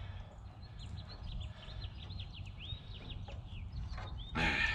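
Wild birds singing: a run of quick, high chirps and whistles over a steady low background hum, with a brief louder sound near the end.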